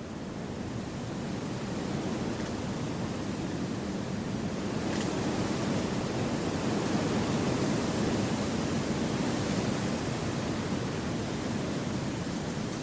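Wind rushing through forest trees, a steady noisy rush that swells gradually over the first several seconds and eases slightly toward the end.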